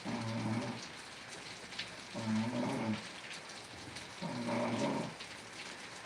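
Steady rain falling, with a low, pitched animal call repeating about every two seconds, three times.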